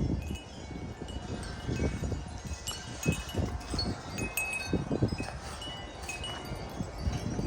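Several wind chimes ringing together in gusty wind, with many overlapping strikes and a steady low sound of wind on the microphone.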